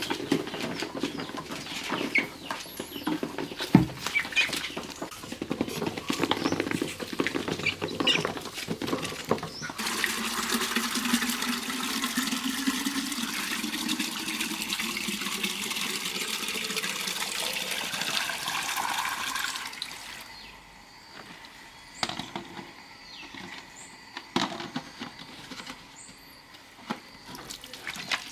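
Water running or pouring steadily for about ten seconds, starting about a third of the way in and fading out. Before it there are scattered clicks and short chirps, and after it a few light knocks.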